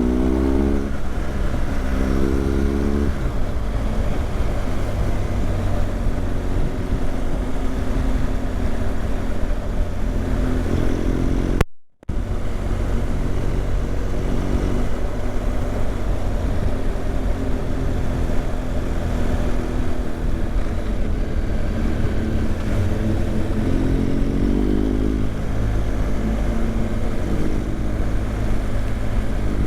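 BMW GS motorcycle engine running on the move, heard on board with wind rush, its pitch rising as it accelerates near the start and again near the end. The sound cuts out briefly about twelve seconds in.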